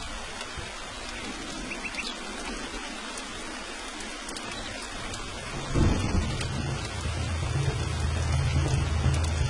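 Steady rain falling, with thunder breaking about six seconds in and rolling on as a deep rumble.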